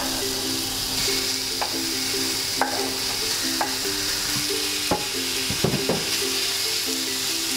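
Diced raw chicken thigh sizzling in hot oil in a non-stick frying pan, a steady hiss. Tongs stirring the pieces clack against the pan several times, about once a second.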